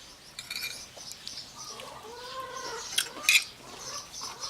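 Outdoor farmyard sounds: small birds chirping, and one drawn-out animal call about two seconds in whose pitch rises and then falls. Two sharp clinks of a utensil on a plate follow about three seconds in.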